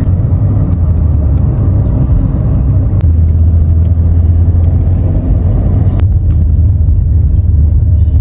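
Car being driven: a steady low rumble of engine and road noise, with a couple of faint clicks.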